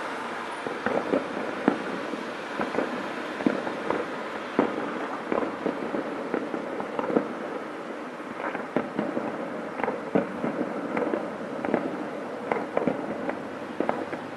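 Fireworks display: a dense, irregular run of sharp bangs and crackles over a continuous hiss. The bangs come thicker and faster in the second half.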